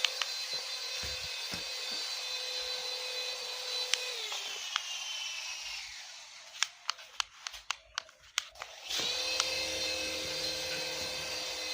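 Small electric motor of a battery-powered toy RC helicopter whining steadily, winding down and stopping about four seconds in, then a run of sharp clicks, and the motor spins back up to its steady whine about nine seconds in.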